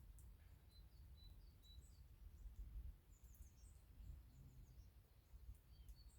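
Faint, short high-pitched chirps of small birds: a few notes about a second in, then runs of higher chirps around the middle and near the end, over a low steady rumble.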